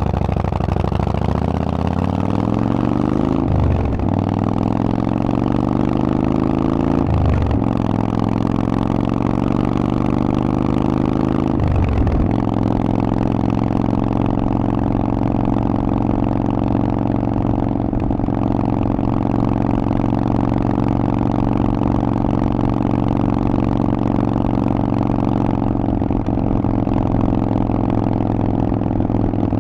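Harley-Davidson Forty-Eight's 1200 cc V-twin running through a Vance and Hines aftermarket exhaust, accelerating with three upshifts, each a rising pitch that drops sharply at the shift, then cruising at a steady speed.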